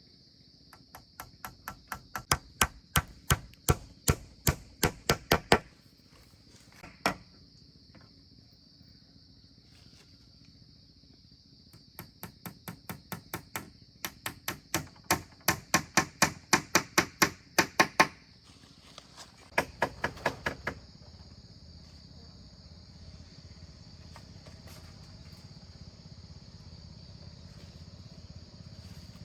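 Hand hammering in runs of sharp blows, about three a second and getting harder through each run, with a short faster burst after the second run. Insects, crickets, chirp steadily underneath.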